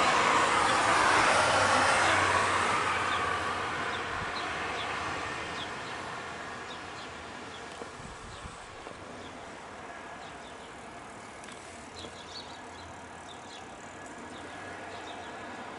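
A passing road vehicle's whoosh fading away over the first few seconds, then quieter outdoor background with faint, short bird chirps.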